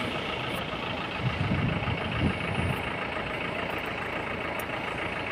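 Vehicle engine and road noise, a steady running drone heard while riding, with a few louder low swells in the middle.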